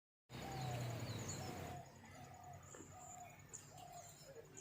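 A bird repeating one short, even-pitched note about every three-quarters of a second, with brief higher chirps from other small birds. A rushing noise runs under the first second and a half, then stops.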